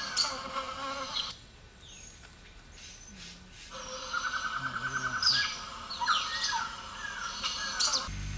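Forest birds calling: a rapid trill of about ten notes a second, then several sharp downslurred whistles.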